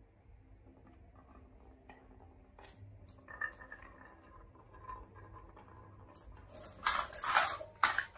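Marbles rolling along a wooden marble run track, with scattered clicks and then a louder run of rattling clacks about a second and a half before the end.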